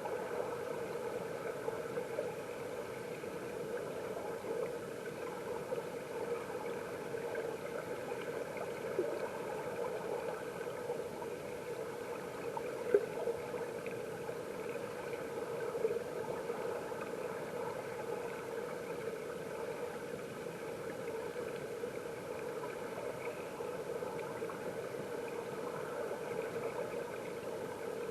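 Flowing stream water heard underwater, a steady muffled rushing with a constant hum-like drone, and one brief sharp knock about halfway through.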